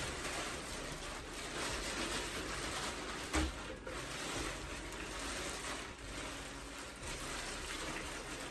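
Plastic takeout seafood-boil bag being shaken to mix the sauce, a steady rustling, with one sharp knock about three and a half seconds in.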